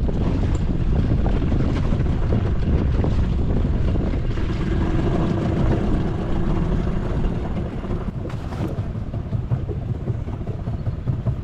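Strong wind buffeting the microphone in a boat on the open river, a heavy, constant low rumble. A faint steady hum runs for a couple of seconds in the middle.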